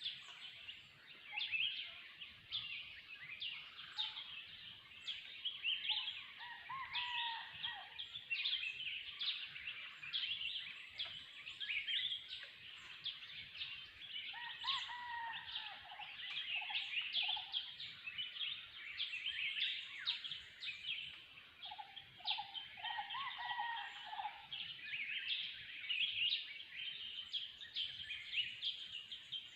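Forest bird chorus: many birds chirping and calling over one another without a break, with lower, mellower calls breaking in now and then, most clearly about halfway through and again about three-quarters through.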